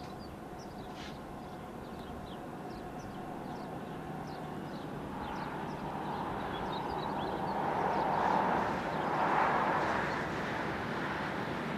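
Approaching coal train hauled by diesel locomotives: a steady low rumble and haze of noise that swells about eight seconds in, with small birds chirping over it.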